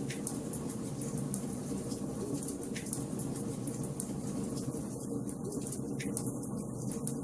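Wood fire burning in a fireplace, crackling steadily with many small sharp pops over a low, even rush of flame.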